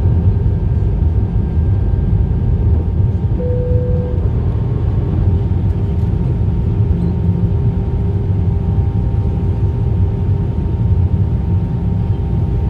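Airbus A319 cabin noise: a steady, loud rumble of CFM56 engines and airflow heard from inside the cabin, with a few steady tones over it. A brief single tone sounds about three and a half seconds in.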